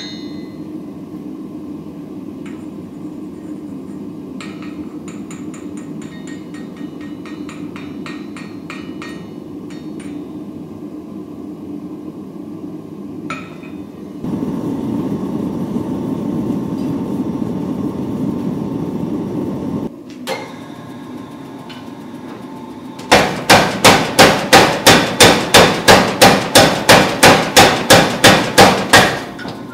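Hammer forging of a damascus steel billet: a steady low hum with light, quick taps in the first half, then a louder steady rushing noise for several seconds. Near the end comes a run of heavy, very even hammer blows on the hot steel, about three a second.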